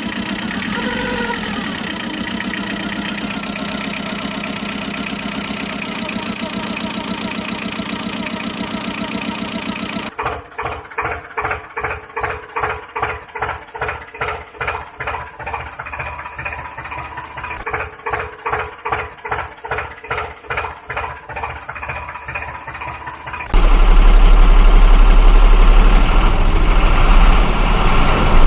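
Vehicle engine sounds in three abrupt sections: a steady engine drone, then a rhythmic chugging about twice a second, then a sudden much louder low rumble near the end.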